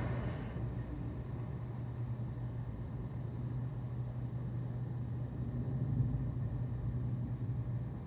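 A car's steady low hum, holding one pitch without revving.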